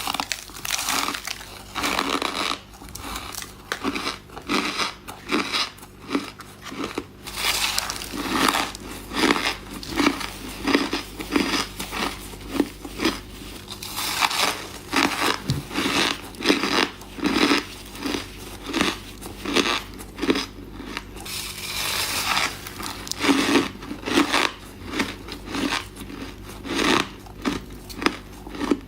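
Ice being bitten and chewed close to the microphone: a steady run of sharp crunches, about one or two a second.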